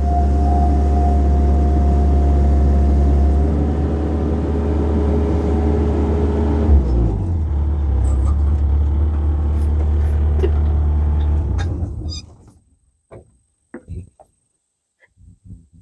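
Excavator's diesel engine running steadily, then shut off about twelve seconds in and winding down to a stop. A few faint clicks and knocks follow.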